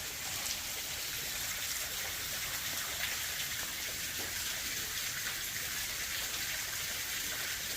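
Waterfall: falling water splashing with a steady rushing hiss.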